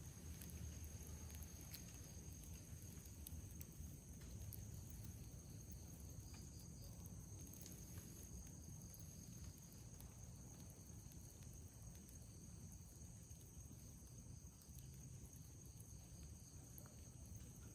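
Faint night insect chorus of crickets, a steady high-pitched chirring, with sparse soft crackles from a campfire and a low rumble underneath.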